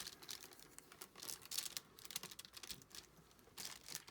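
Plastic crinkling and a string of light clicks as diamond-painting supplies, the drill pen and trays of resin drills, are handled on the work mat.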